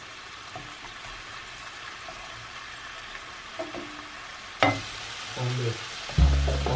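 Food sizzling in a frying pan, a steady hiss, with a sharp utensil knock against the pan about four and a half seconds in. Guitar music comes in near the end.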